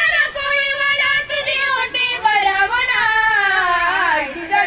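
A young girl singing solo, holding long, wavering notes without words between lines of a Marathi devotional song to the mother goddess. The pitch slides slowly down, then rises again near the end.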